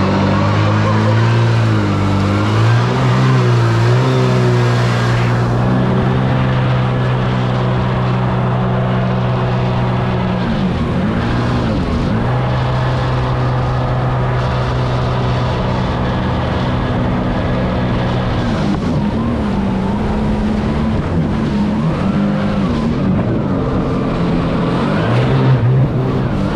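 Jetski engine running hard at speed over a noise of wind and water, its revs holding steady for long stretches, dipping sharply about eleven seconds in and rising and falling repeatedly near the end.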